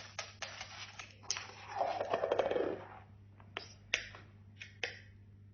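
A cockatoo chewing and cracking at a toy with its beak: a run of sharp clicks and snaps, with a denser rasping stretch about two seconds in.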